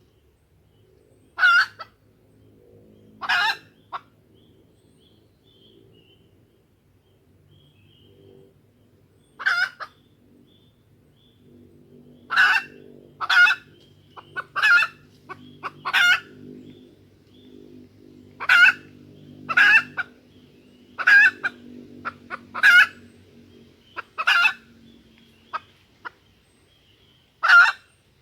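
Junglefowl hen giving short, sharp calls, about a dozen at uneven intervals of one to three seconds: a hen lure call of the kind used to draw wild junglefowl and set the cocks crowing. A faint low hum runs underneath.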